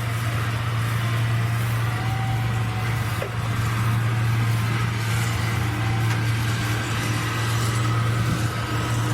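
Pulling tractor's engine running steadily at a constant pitch, a deep unchanging hum with no revving.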